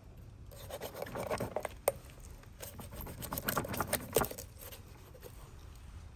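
Scraping and rustling with a few sharp clicks, loudest through the first two-thirds, then quieter.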